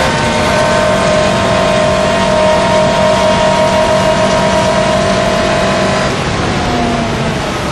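Alfa Romeo GTV6's tuned 3.0-litre V6 with free-flow exhaust, heard from inside the cabin at speed, holding a steady note. About six seconds in it gets quieter and the pitch falls as the revs come down.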